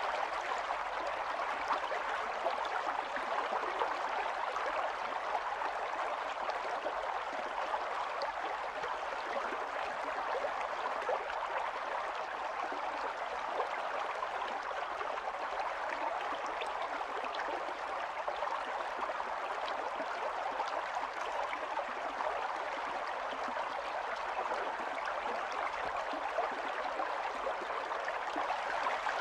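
Small stream running over stones: a steady babble of flowing water with fine splashing and trickling detail.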